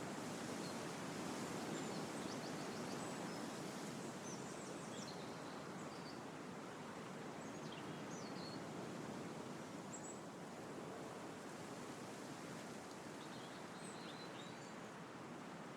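Wind blowing through trees, a steady rushing of leaves that is a little stronger in the first few seconds and then eases. Small birds call faintly now and then with brief high chirps.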